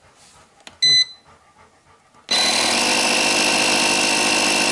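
A short electronic beep from the Stanley FatMax jump starter pack, then, a little over a second later, its built-in 12-volt air compressor starts abruptly and runs steadily and loudly.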